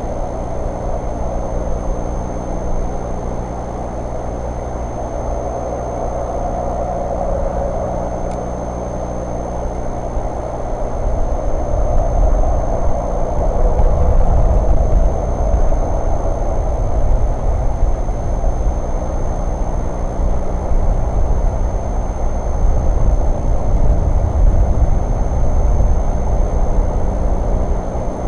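A vehicle engine idling steadily, with a deeper, louder low rumble coming in about eleven seconds in.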